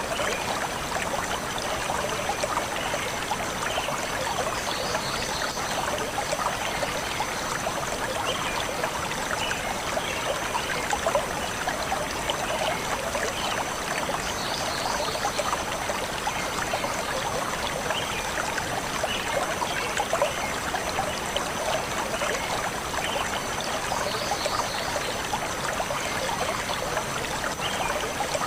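A stream of water flowing and trickling steadily over stones, an even rushing sound.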